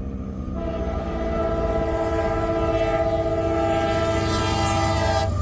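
Diesel freight locomotive's multi-chime air horn sounding one long, steady blast that starts about half a second in and cuts off sharply at the end, over the low rumble of the approaching train.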